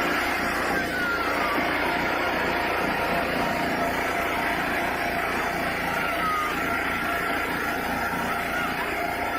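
An engine-driven machine running steadily, with a faint whine that shifts slightly in pitch.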